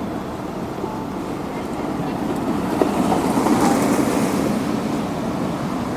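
Road-works vehicles and machinery running during asphalt laying, a steady engine rumble that swells about halfway through.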